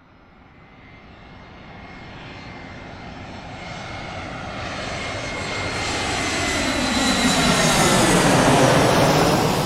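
Airplane flying over: the engine sound swells steadily from nothing, is loudest about eight and a half seconds in, then starts to fade, with a high whine that slowly falls in pitch.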